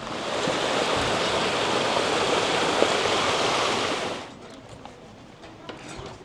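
Waterfall rushing in a steady, loud wash of water noise, which drops away suddenly about four seconds in.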